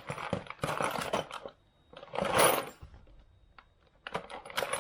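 Rummaging through a toolbox: small tools and drill bits clattering and clinking together in several bursts, with a quieter stretch of a few light clicks past the middle.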